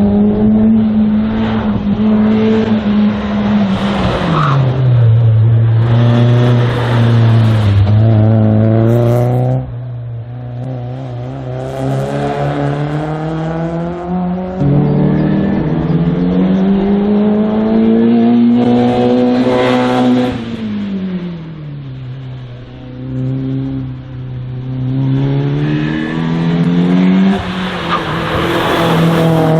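Race car engine running hard through a slalom course, its pitch climbing and falling back five or six times as the car accelerates and brakes between gates. There is an abrupt jump in pitch about halfway through.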